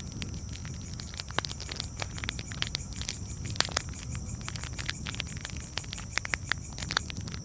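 Campfire crackling, with many irregular sharp pops and snaps over a low steady rumble of flame.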